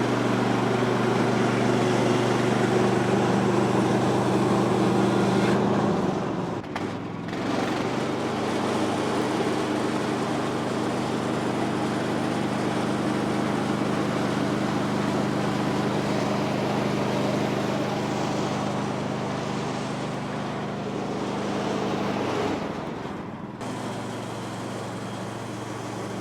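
Woodland Mills HM126 portable bandsaw mill running steadily, its gas engine driving the blade as it saws a log. The engine note dips and shifts twice, about six seconds in and again about twenty-two seconds in.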